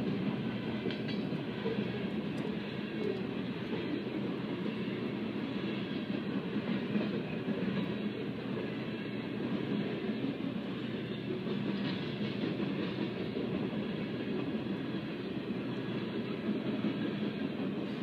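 Coal train cars rolling past on the rails: a steady, unbroken noise of wheels on track.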